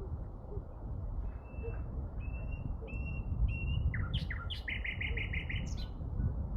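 A songbird singing: four short whistled notes, then a few quick falling notes and a fast trill of about eight notes, over a steady low rumble.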